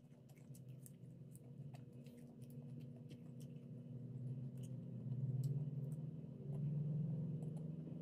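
Closed-mouth chewing and small clicking sounds from fingers working rice and food on a plate. Under them runs a low, steady hum that grows louder in the second half.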